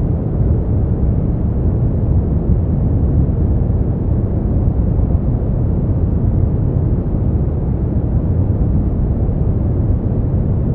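Steady brown noise: a deep, even rumbling hiss, strongest in the bass and fading toward the treble, with no changes or events.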